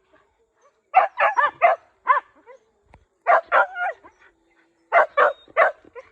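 Hunting dog yelping in quick runs of three or four high barks, with a run every second or two, the cry of a hunting dog on the chase of a wild boar.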